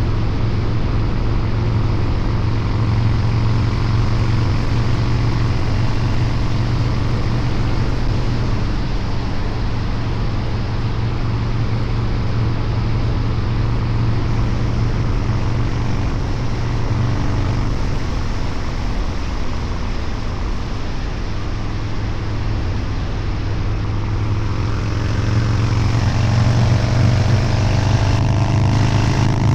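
Harley-Davidson 129 ci V-twin with a Two Brothers Racing exhaust running under way, with a steady low exhaust note. It eases off for a stretch past the middle, then pulls harder near the end with a rising pitch and louder exhaust.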